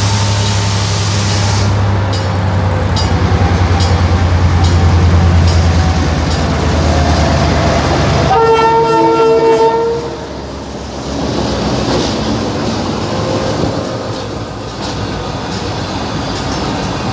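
Train at a station: a diesel locomotive's engine running with a loud, steady low drone, then one horn blast about a second and a half long, roughly eight seconds in. After the blast, a quieter rumble of the train continues.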